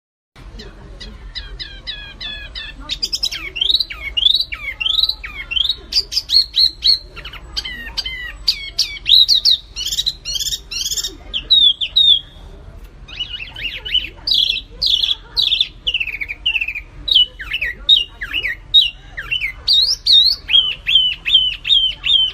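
A songbird singing a fast, varied chattering song of rapid repeated chirps and rising and falling whistled notes, broken by a short pause about halfway through.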